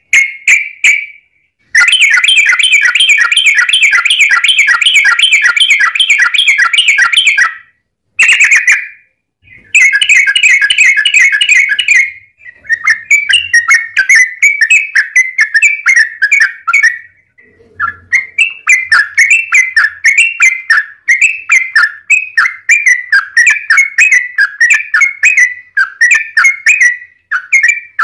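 Yellow-vented bulbul singing long rapid-fire chattering trills in repeated bouts, with short pauses between runs.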